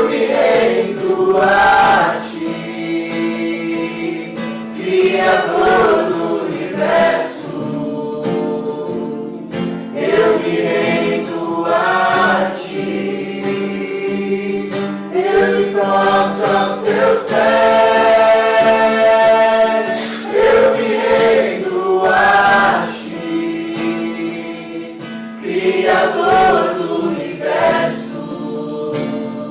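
Group of voices singing a worship song together to acoustic guitar, in phrases of a few seconds over sustained chords.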